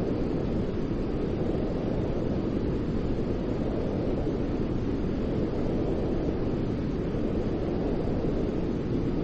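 Steady low, rumbling white noise for soothing a baby to sleep, an even hiss weighted toward the low end, with no changes.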